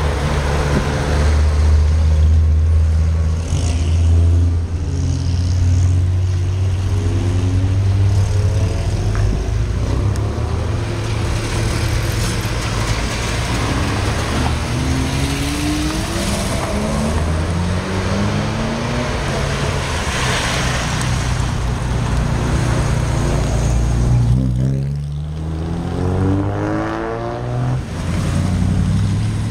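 Car engines running, with a low steady engine hum close by and several engines revving up with rising pitch, the clearest acceleration about three quarters of the way through.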